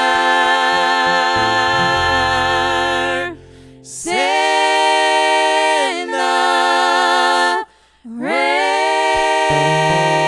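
Gospel song's closing held notes: voices sustaining long notes with vibrato over a low bass note, in three long held chords with brief breaks about three and eight seconds in.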